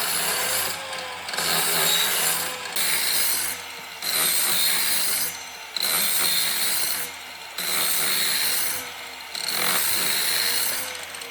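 A woodworking tool working wood in repeated strokes, about one every one and a half seconds, each a second or so of rasping noise with short pauses between.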